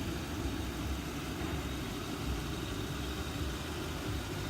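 Ford Crown Victoria's 4.6-litre V8 idling steadily while warming up.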